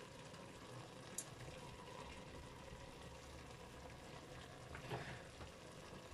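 Faint steady sizzling from the heated multicooker bowl, where meat is frying under a layer of rice, with a small click about a second in and a soft knock near the end as garlic cloves are pushed into the rice.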